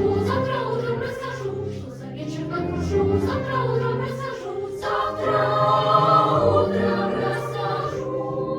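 Children's choir singing with piano accompaniment; the voices end about eight seconds in, leaving a piano chord ringing.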